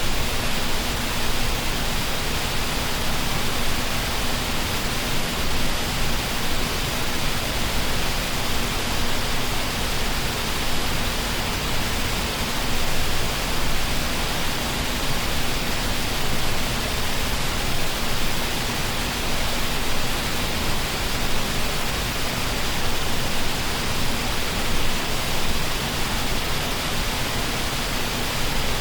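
Waterfall pouring and splashing as a steady, even rush of white water.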